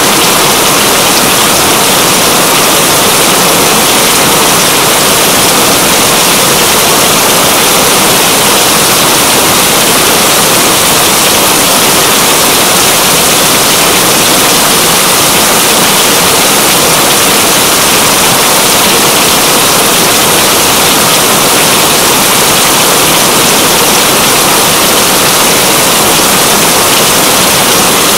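Heavy rain falling as a loud, steady, even hiss with no letup.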